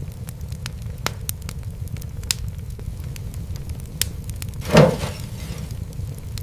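Wood fire in a fireplace crackling: a steady low rumble of flames with scattered sharp pops. About five seconds in there is one louder pop followed by a short hiss.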